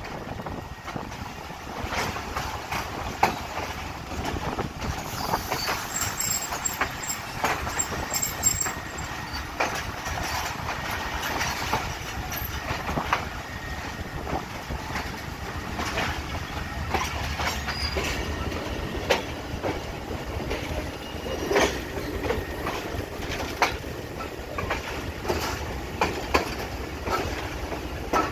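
Pakistan Railways passenger train rolling through a station yard, heard from a coach doorway: a steady wheel-and-rail rumble with irregular clicks and knocks as the wheels cross rail joints and points.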